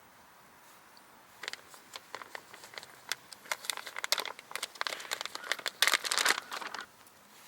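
Crinkly material being crumpled and handled in irregular bursts of crackling clicks, starting about a second and a half in and loudest near the end.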